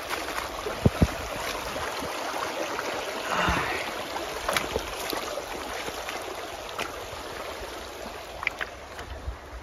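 River water rushing steadily, with a few short knocks and clicks over it, two of them low thumps about a second in.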